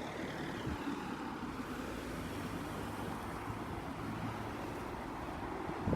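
Steady hum of road traffic passing on a busy road.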